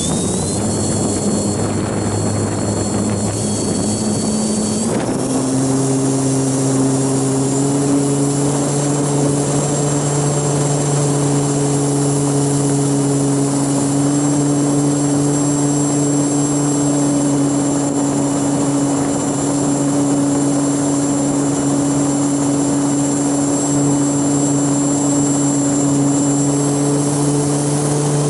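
Electric motors and propellers of a radio-controlled model aircraft, heard from the camera riding on it: a steady propeller hum with a high motor whine over rushing wind noise. About five seconds in, the hum steps up in pitch and gets louder, then holds steady.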